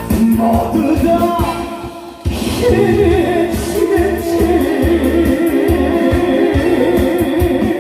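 Live band music with a singer: a steady drum beat and bass under a sung melody, dropping briefly about two seconds in before carrying on.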